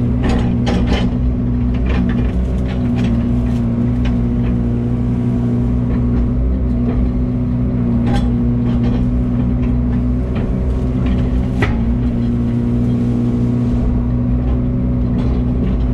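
Excavator's diesel engine running steadily under hydraulic load, with scattered sharp cracks and snaps as brush and branches are torn out.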